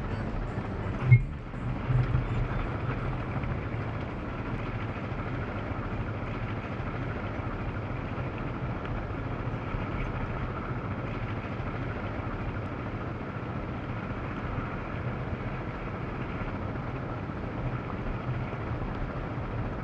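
Yamaha Serow single-cylinder motorcycle engine running steadily on a downhill dirt-road ride, with one sharp knock about a second in.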